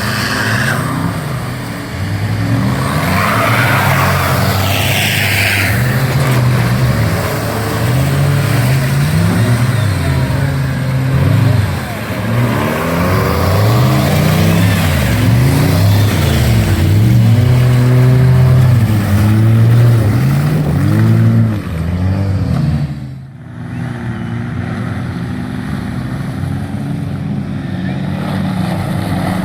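Off-road 4x4 engine revving hard, its pitch climbing and falling again and again as it works through an obstacle course. It drops away suddenly about three-quarters through, then runs on more steadily.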